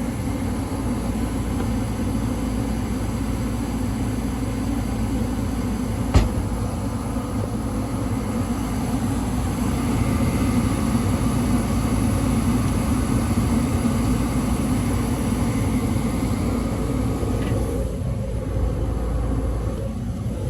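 Newly installed 90% efficiency gas furnace running on its test fire, burner lit and blower going: a steady low rumble and rush. One sharp click about six seconds in.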